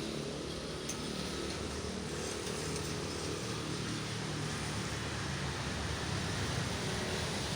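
Road traffic on a main road: a steady drone of motor vehicles passing, engines and tyres, growing slightly louder near the end.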